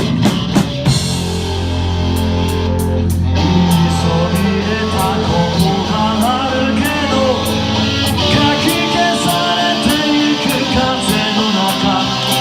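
Rock band playing an instrumental intro: electric guitar and bass over a drum kit. A burst of drum hits at the start gives way to a steady cymbal beat of about two strokes a second, under a long held bass note for the first two-thirds.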